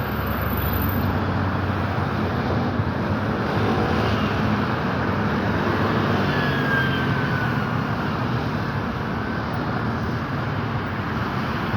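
Steady road traffic noise, a continuous rumble and hiss of passing vehicles, with a faint brief high whine about six seconds in.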